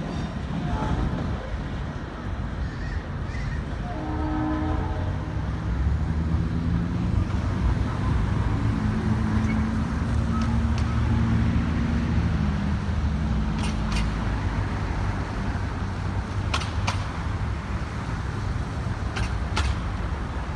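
Freight train rolling past with a steady low rumble of wheels on the rails. A short horn blast sounds about four seconds in, then a longer, lower horn tone runs from about eight to thirteen seconds. A few sharp clicks come near the end.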